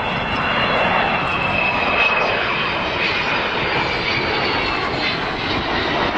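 Avro Vulcan's four Rolls-Royce Bristol Olympus 202 turbojets running during a flypast: a steady jet rush with a high whine drifting slightly in pitch over it.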